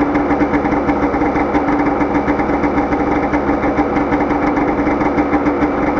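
2009 Polaris Trail Touring snowmobile's 550 two-stroke twin idling steadily, still cold and warming up after a cold start.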